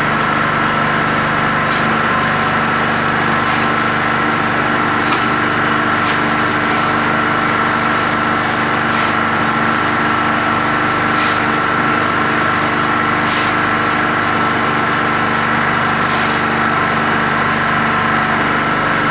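Skif BSM 200 concrete mixer running steadily on its 550 W electric motor, the drum turning, with faint short knocks every second or two.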